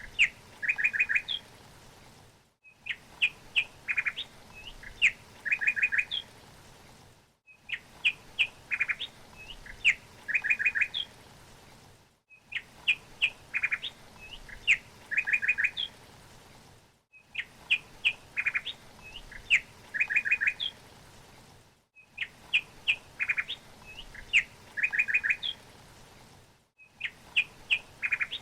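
A songbird's short song phrase, a few high chirps followed by a quick run of notes, repeated identically about every five seconds as a loop, with a brief dropout between repeats over a faint steady hiss.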